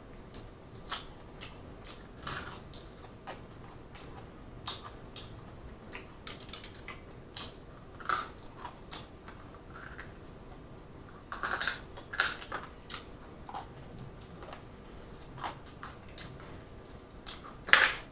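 Close-up eating noises: crunchy fried chicken being bitten and chewed, a stream of irregular sharp crackles and clicks from the crisp breading. There is a louder spell a little past the middle and a loud mouth noise just before the end.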